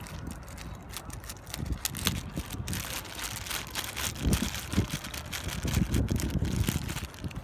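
Wind buffeting the microphone in uneven low gusts, with the rustles and clicks of accessories and packaging being handled.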